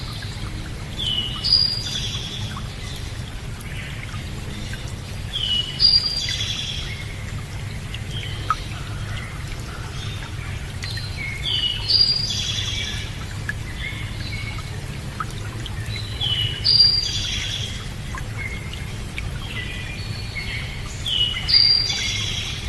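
A songbird repeats the same short, high phrase five times, about every five seconds, over steady running water.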